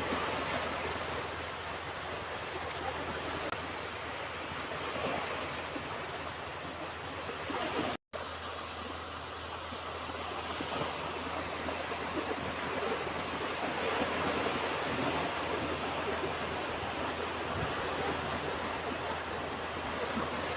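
Ocean waves washing onto a beach: a steady rushing surf that swells and eases. It cuts out for a split second about eight seconds in.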